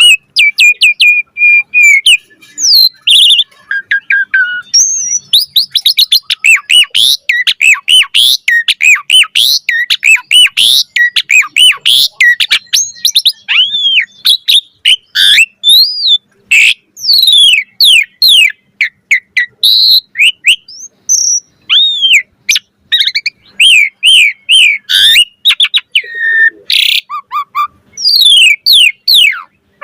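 Asian pied starling (jalak suren) in full song: a fast, varied run of whistles, chirps and sharp notes sliding up and down in pitch, with only brief pauses.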